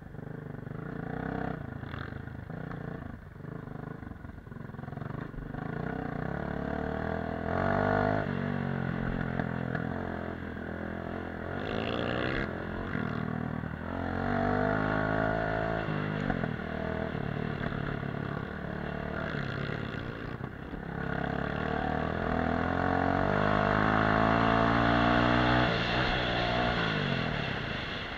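Off-road motorcycle engine running under load, revving up repeatedly and dropping back as the throttle is opened and closed, with the longest and loudest climb near the end.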